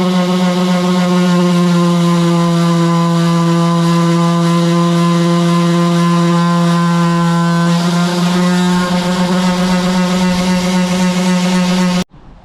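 Electric sander running with a steady, loud buzz. Its sound roughens slightly about two-thirds of the way through, and it stops abruptly near the end.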